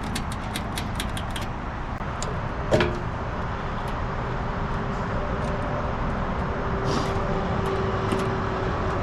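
Steady outdoor background rumble with light clicks in the first second or so and a single knock about three seconds in.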